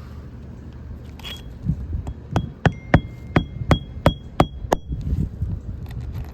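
Hammer driving a roofing nail into a shingle: about eight quick, ringing metal blows, roughly three a second, in the middle of the stretch, over low wind rumble on the microphone.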